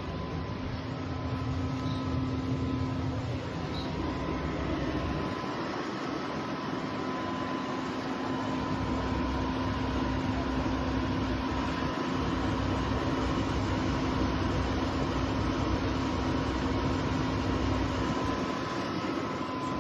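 Portable air conditioner running: a steady fan whoosh with a constant hum, and a low rumble that fades and returns.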